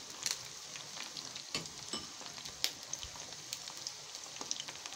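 Chicken meatballs frying in hot oil in a pan: a steady sizzle with scattered sharp pops and crackles from the spitting oil.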